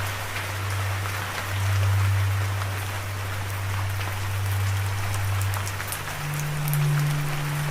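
Steady rain falling, a dense hiss with scattered drop ticks, over a low held drone note that steps up in pitch about six seconds in.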